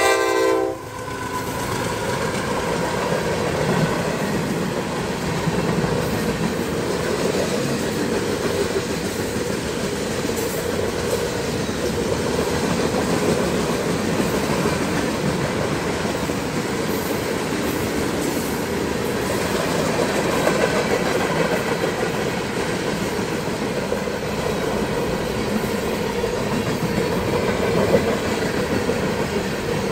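CSX freight train passing at speed: the locomotive horn cuts off within the first second, then the steady noise of the freight cars' wheels rolling over the rails.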